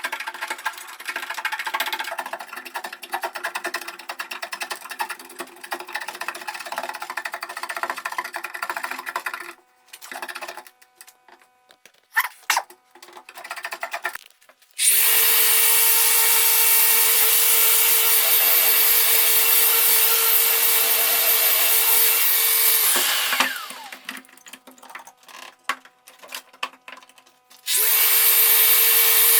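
Rough, rapid scraping on workpiece for several seconds, then an electric power tool running with a steady whine. The tool is switched off about 23 seconds in, its pitch falling as it winds down, and starts up again near the end.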